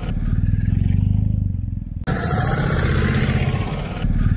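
Ducati Desert X's 937 cc L-twin engine running through its stock muffler as the bike pulls away, a low, even engine pulse heard in two near-identical stretches. The owner finds the stock exhaust far too tame for a near one-litre bike, saying it sounds like a moped, probably because of Euro 5 emission rules.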